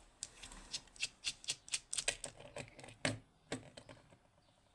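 A quick, irregular run of light clicks and taps from handling a lock and small tools, about a dozen in three and a half seconds, then it goes quiet.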